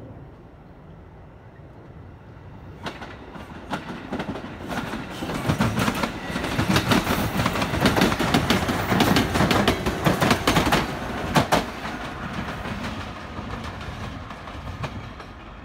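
A train passing at speed, its wheels clicking over the rails. It builds about three seconds in, is loudest through the middle, and fades near the end.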